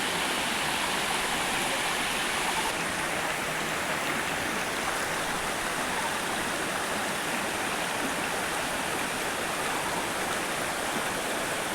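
Steady rushing of water from a waterfall and its stream, an even unbroken hiss with no pauses.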